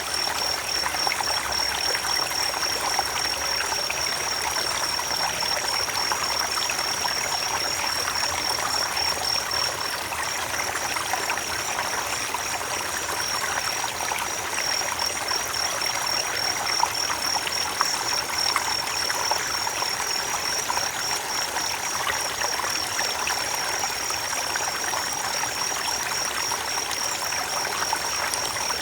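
Creek water running and trickling over stones in a steady rush, with a steady high-pitched pulsing trill over it.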